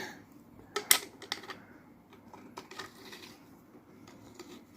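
Scattered light clicks and taps of small metal mixer-tap parts being handled, a few close together about a second in and sparser ones after.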